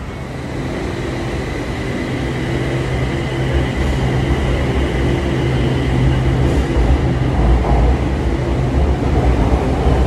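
BTS Skytrain electric train pulling out of an elevated station platform, its running noise growing steadily louder.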